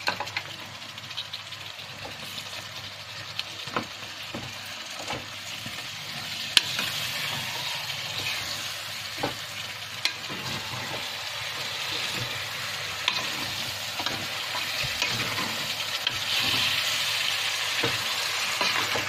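Chicken and masala frying in a pressure-cooker pot, sizzling as freshly added beaten curd is stirred in with a metal ladle, with scrapes and knocks of the ladle against the pot. The sizzle grows louder about six seconds in.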